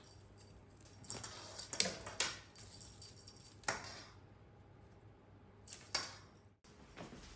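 Light clinks and rattles of small hard objects being handled, in four separate bursts, the busiest about a second in.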